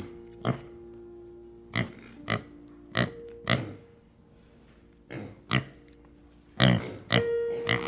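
About ten short, sharp animal calls, coming singly or in pairs, over background music with held notes.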